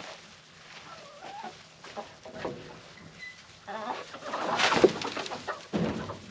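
Chickens clucking, with a louder rustling clatter a little over four and a half seconds in.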